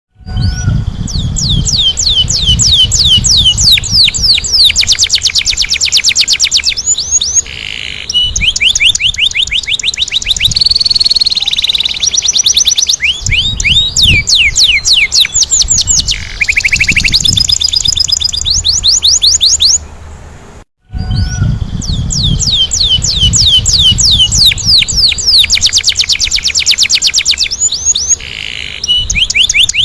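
Domestic canary singing a long, loud song of rolling trills, each a fast run of rapidly repeated sweeping notes, changing from one trill to the next. About two-thirds of the way through it cuts out briefly and starts again, over a low background rumble.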